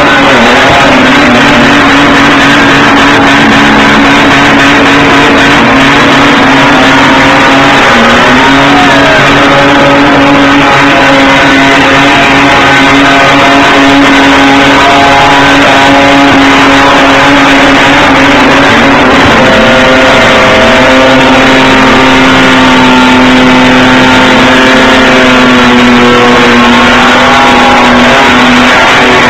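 Two normally aspirated Ford Falcon XR6 inline-six engines held at steady high revs in a burnout, running loud with the tyres spinning; the pitch sags briefly about 8 seconds in and again about 20 seconds in before climbing back.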